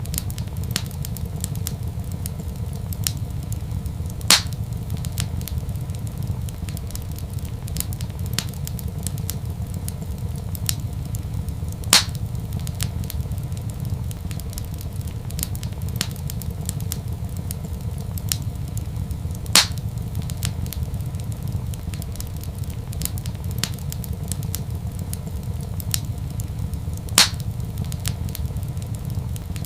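Crackling wood fire in a fireplace: frequent small crackles over a steady low rumble, with four louder pops spaced evenly about every seven to eight seconds.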